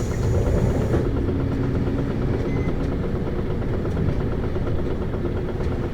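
Isuzu Erga (PKG-LV234Q2) city bus's six-cylinder diesel engine running steadily, heard from inside the passenger cabin.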